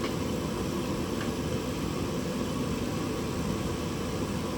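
Steady rushing hum of a space heater running to warm a cold garage, even and unbroken, with a faint tick or two.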